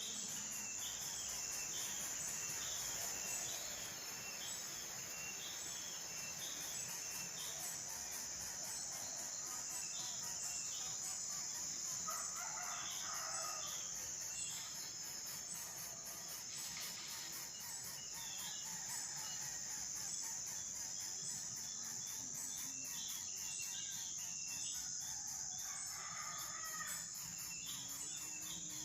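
Outdoor ambience of insects trilling steadily with a fast high pulsing, small birds chirping again and again, and a rooster crowing twice, about twelve seconds in and again near the end.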